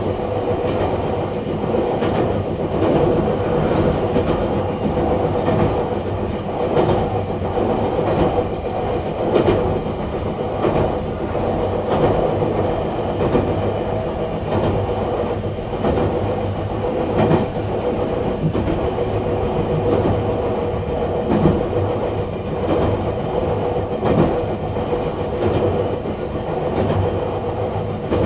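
Nagano Electric Railway limited express electric train running along the line, heard from on board: a steady rumble of wheels on rail with a steady hum, broken by scattered clacks over the rail joints.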